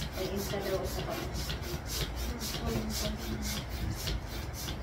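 Quick, even rasping strokes, about five a second, that stop near the end.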